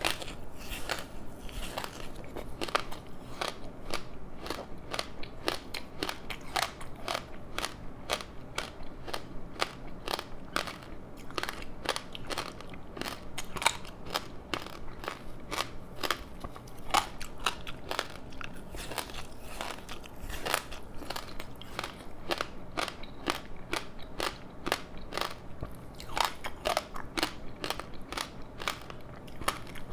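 Close-up chewing of crispy seaweed-wrapped rice: steady crisp crunching and crackling as the dry seaweed breaks, with bites and wet chewing between.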